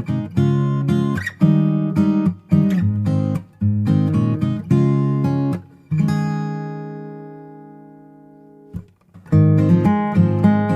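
Background music on acoustic guitar, strummed chords in a steady rhythm. About six seconds in, one chord is left to ring out and fade for nearly three seconds, then the strumming starts again.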